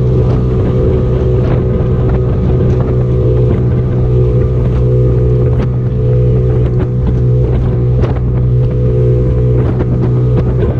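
Motorboat engine running steadily under way, a constant loud hum, with rushing water and wind on the microphone and a few sharp knocks.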